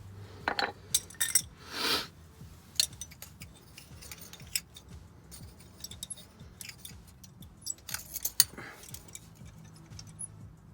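Scattered metallic clinks and taps of hand tools and small steel parts being handled, with a short scraping rasp about two seconds in.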